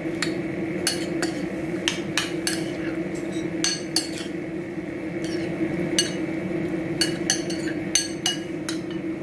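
A spoon clinking irregularly against a bowl while prawns are mixed into their marinade, over a steady background hum.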